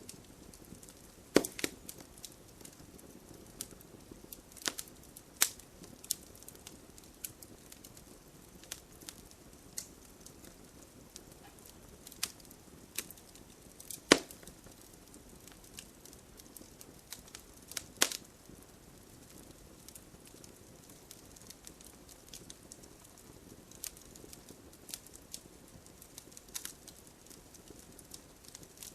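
Campfire burning: wood crackling with scattered sharp pops over a faint low hiss of the flames, the loudest snaps about a second and a half in, around the middle, and about two thirds of the way through.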